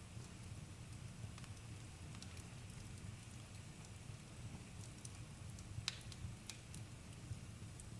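Campfire burning with a steady low rumble and scattered crackles and pops, the loudest pop about six seconds in.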